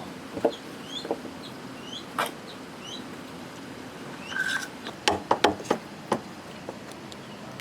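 Scattered sharp knocks of wood being handled, with a quick run of louder knocks about five seconds in, while small birds chirp repeatedly.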